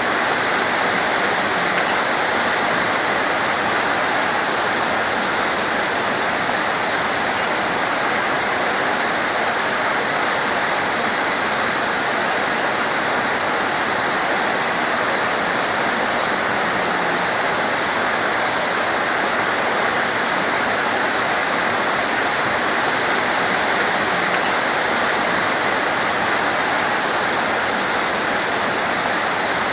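Torrential rain pouring down steadily: a dense, even hiss with no letup. There is a single faint tick about halfway through.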